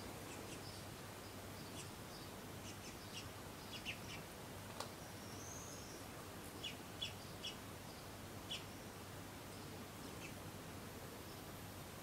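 Faint garden birds chirping: short, scattered chirps, some in quick pairs or triplets, with one brief higher warbled note about five and a half seconds in, over steady outdoor background noise.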